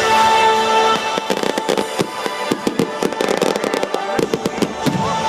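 Fireworks crackling in a rapid, dense string of small pops that starts about a second in, with music playing underneath.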